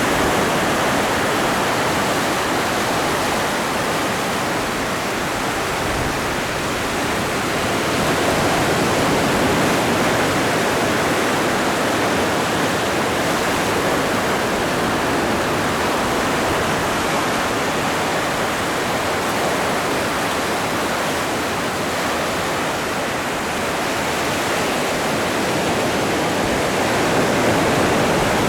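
Atlantic ocean waves breaking and washing onto the shore, a continuous rushing surf with gentle swells in loudness.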